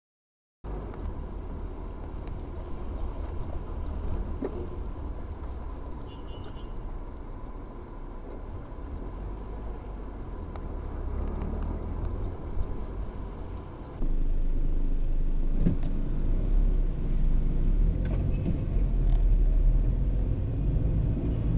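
Vehicle running with steady low road rumble. A faint steady whine sits under it in the first part. About two-thirds through, a louder, duller rumble takes over, with a few brief knocks.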